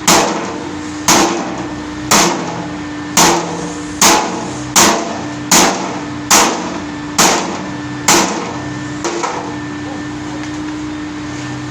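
About ten hammer blows, roughly one a second, then a lighter last tap, over a steady machine hum.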